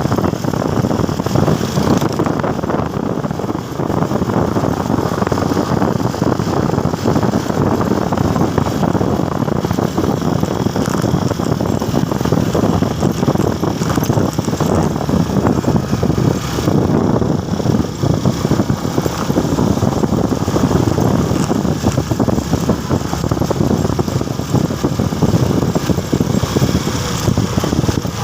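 Motorcycle on the road: a steady, dense low rumble of engine, wind and road noise.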